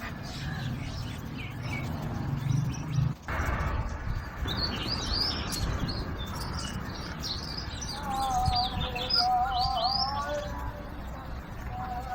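Small birds chirping: a run of short, quick high chirps, with a wavering lower warble joining in about eight seconds in.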